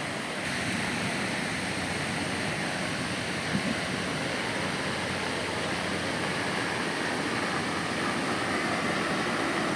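Ocean surf breaking and washing up the beach, a steady rushing noise, with a brief knock about three and a half seconds in.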